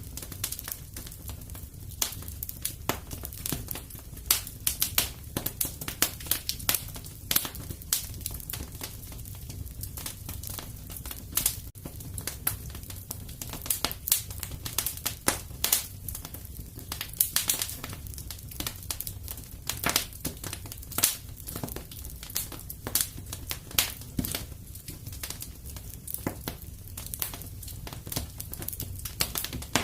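Wood fire crackling in a fireplace: irregular sharp pops and snaps, some several at once, over a steady low rumble of the flames.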